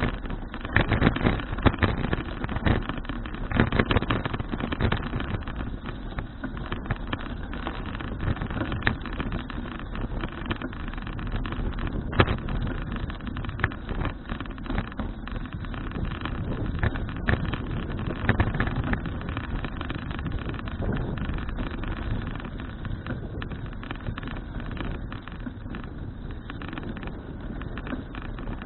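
Wind rumbling on the action camera's microphone while a bicycle rides along. Road bumps and rattles knock through it frequently, most heavily in the first few seconds.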